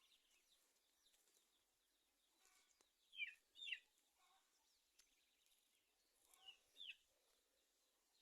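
Faint bird calls over near silence: two pairs of short, falling chirps, one pair about three seconds in and another near seven seconds.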